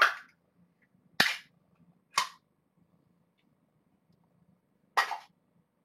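A can of cat food being opened, with four short sharp cracks and pops from the pull-tab lid. It is the 'magic noise' a cat knows means food.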